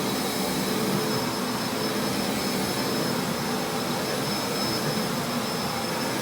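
Carpet-washing vacuum cleaner running steadily: a loud rush of suction air with a thin high motor whine over it.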